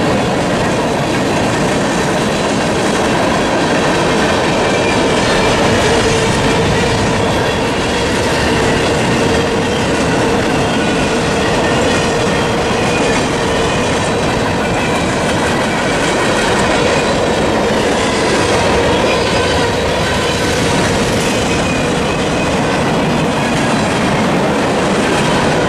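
Freight train cars rolling steadily through a grade crossing, their wheels clattering and rumbling over the rails.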